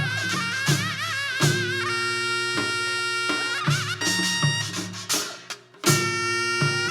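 Korean traditional music for the Jindo drum dance: a reedy wind melody, wavering with deep vibrato and then held on long notes, over drum strokes. The music thins briefly about five and a half seconds in, then comes back in on a loud drum stroke.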